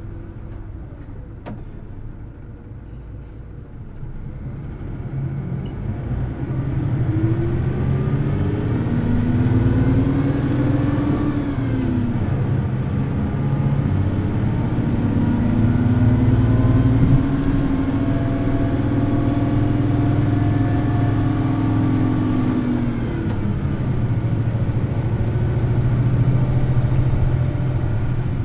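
Hino Blue Ribbon City Hybrid bus's diesel engine and hybrid drive pulling hard at high revs, with a whine that climbs in pitch. The revs drop at a gear change about twelve seconds in and again near twenty-three seconds, then climb again each time. The first few seconds are quieter, before the bus pulls away.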